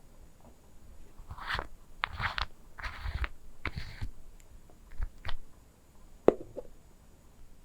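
ASMR trigger sounds of objects handled close to a microphone: a run of short crunchy, crinkly rustles, then a few sharp taps, the loudest about six seconds in.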